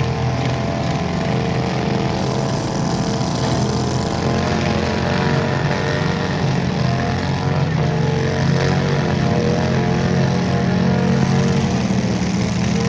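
Small tractor engine running steadily at high speed, a continuous drone whose pitch wavers only slightly.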